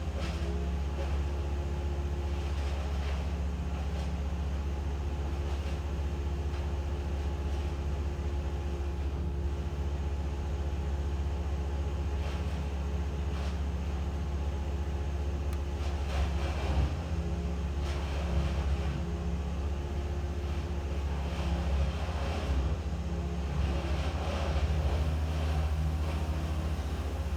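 An engine running steadily, with a strong, even low hum and a few slightly louder patches after the middle.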